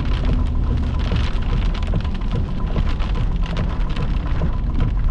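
Heavy rain pounding down in a severe thunderstorm, many drops striking at once over a steady low rumble.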